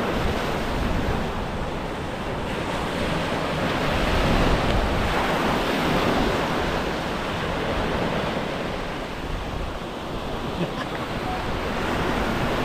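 Steady rush of waves, with wind buffeting the microphone.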